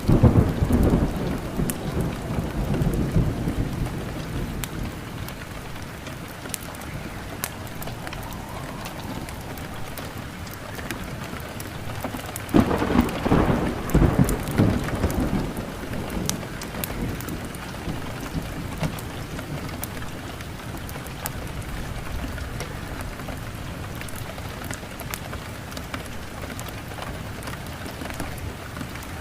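Steady rain falling, with two rolls of thunder: one right at the start that fades over about four seconds, and a second, louder one about halfway through. Sharp ticks are scattered throughout.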